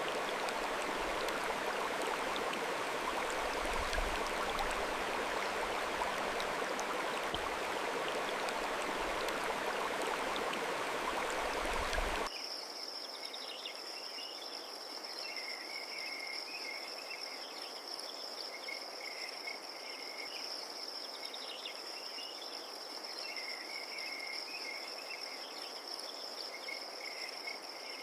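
Running water as an even rush, cut off abruptly about twelve seconds in. Then crickets trill, one steady high-pitched trill with scattered lower chirps over it.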